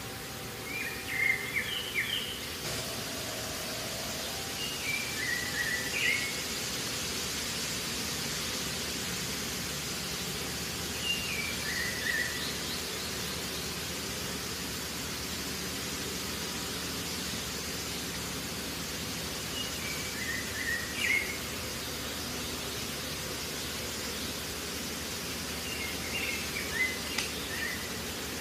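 A bird calls five times, each call a short phrase of stepped chirps, over a steady hiss.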